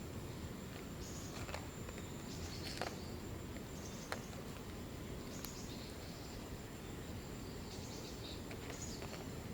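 Quiet outdoor ambience: a steady low rumble under a faint high whine, with a few brief high chirps and two or three light clicks.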